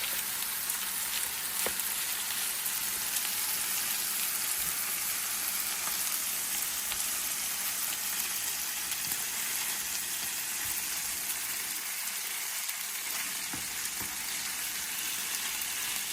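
Chicken fried rice sizzling steadily on a hot griddle, a continuous crackling hiss with a few small pops.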